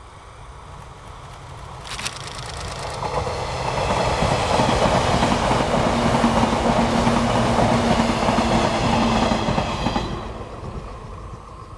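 JR 485-series electric multiple unit passing at speed. Its rumble builds up, with a run of sharp wheel clicks about two seconds in. It is loud from about four to ten seconds, with rhythmic wheel clatter and a steady hum, then fades quickly as the train moves away.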